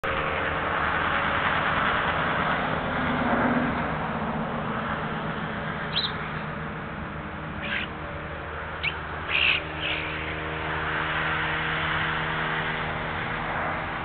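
A handful of short, sharp bird calls, about five between six and ten seconds in, over a steady outdoor hiss with a low hum.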